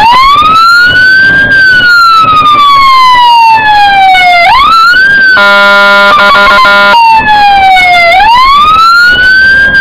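Scania fire truck responding with its wail siren, each cycle a quick rise then a slow fall lasting about three seconds. About five seconds in, the siren breaks off for a steady horn blast of about a second and a half, then the wail resumes.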